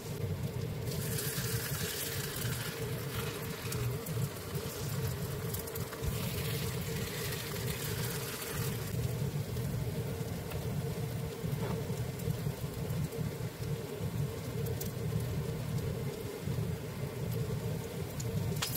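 Shrimp and zucchini pancakes sizzling in oil in a frying pan over a steady low hum. The sizzle swells twice, about a second in and again a few seconds later, around the time a spatula presses a pancake down in the pan.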